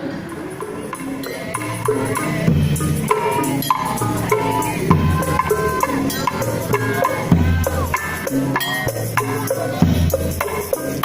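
Tongtek percussion music: bamboo kentongan slit drums and drums knocking out a steady beat, with a melody over it, a little louder from about two seconds in.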